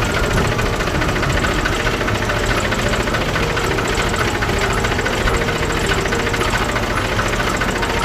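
An engine idling steadily with a fast, even knocking beat.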